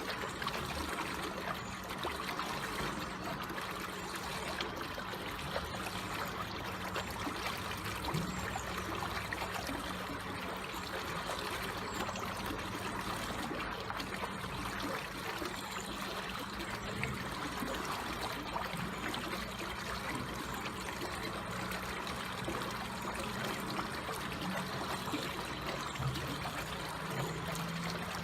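Water flowing slowly and steadily with a gentle trickle.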